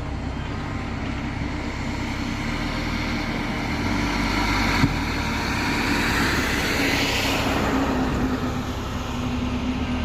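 A road vehicle passing: engine and tyre noise that swells to a peak about seven seconds in and then fades, with a single sharp click a little before five seconds.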